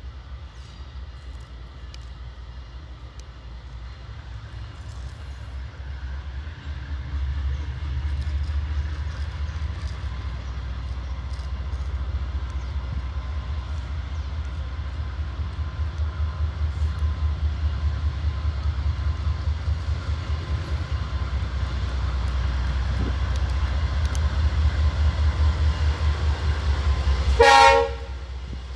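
GE Dash-9 diesel locomotives approaching, their engines' low, pulsing rumble growing steadily louder. A short, loud horn blast sounds near the end.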